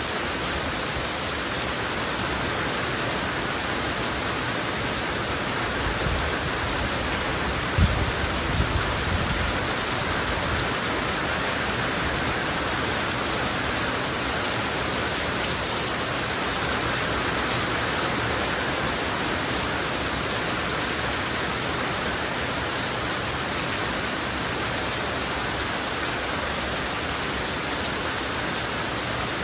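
Heavy rain falling steadily, an even hiss of water on surfaces. About eight seconds in, a brief low thump and rumble rises over it for a couple of seconds.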